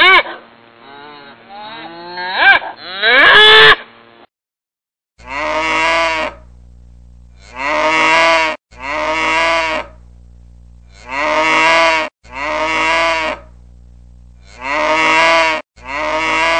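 Young calf mooing: a run of calls in the first few seconds, a short gap, then about seven more moos of a second or so each, mostly in pairs.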